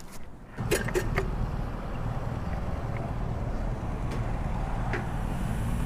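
A motorcycle engine starts about half a second in and settles into a steady idle, with a few clicks as it catches.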